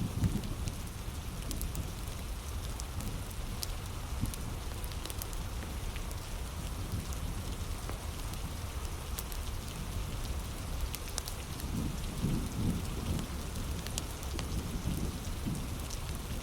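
Heavy rain falling steadily, with sharp crackles and pops from a wood fire scattered through it, and a low rumble swelling about twelve seconds in.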